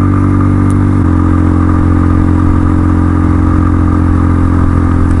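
Dual-sport motorcycle engine running steadily under way, with a slight change in its note about a second in.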